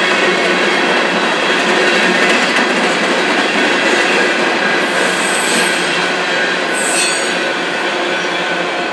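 Freight cars of a mixed manifest train rolling past: a steady rumble of steel wheels on rail with a thin ringing of wheel noise, and two brief high wheel squeals about five and seven seconds in.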